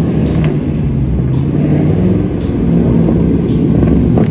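Dodge Charger SRT's V8 engine running at low revs, a steady low rumble as the car rolls slowly closer.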